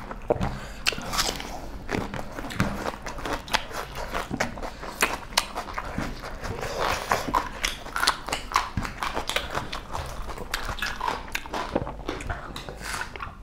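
Close-up eating sounds of two people chewing beef curry and rice eaten by hand: a steady, irregular run of wet chewing and lip-smacking clicks.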